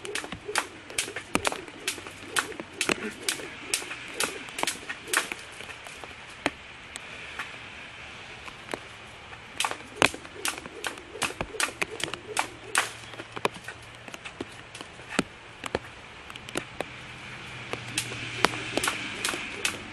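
Jump rope slapping the ground in a steady rhythm of about two to three strokes a second, thinning out for a few seconds midway, then picking up again.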